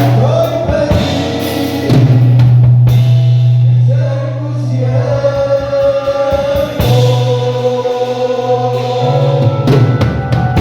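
Worship song with singing voices over a band with drum kit and bass guitar, sustained bass notes under held sung lines.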